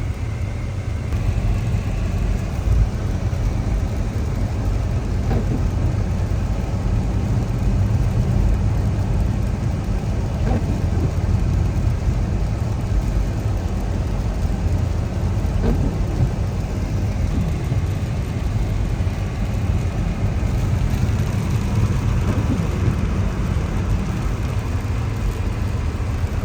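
Car driving on a wet, snowy road, heard from inside the cabin: a steady low rumble of road and engine noise.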